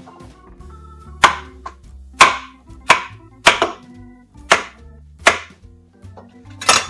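Kitchen knife chopping vegetables on a cutting board: about seven sharp chops at uneven intervals, over background organ music.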